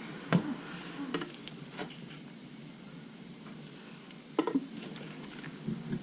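A few short knocks and clinks of hand tools, a pry bar and a shovel, working at the pipe: once about half a second in, again about a second in, a quick cluster a little after four seconds and one more near the end, over a steady hiss.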